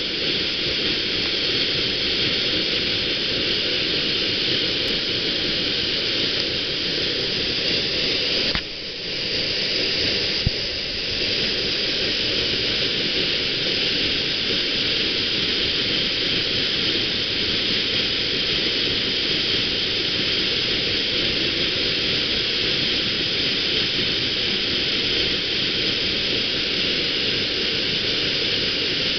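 Waterfall: a steady rush of falling water, dipping briefly about eight and a half seconds in.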